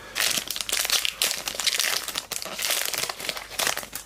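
Plastic trading-card pack wrapper crinkling loudly as a Footy Stars packet is wrestled open by hand, with a run of sharp crackles and rustles.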